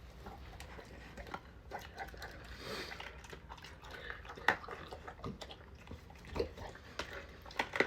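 Dogs eating raw fish and chicken from their bowls: irregular chewing and biting with scattered wet smacks and clicks.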